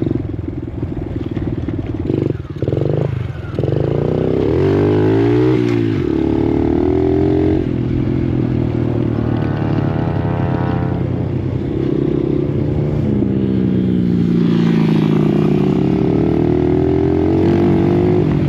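Dirt bike engine being ridden, its pitch repeatedly climbing and dropping as the rider revs and shifts through the gears.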